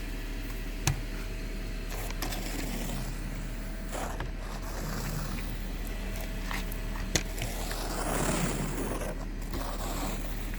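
Snow being scraped and swept off a car in a series of scraping strokes, with two sharp knocks along the way.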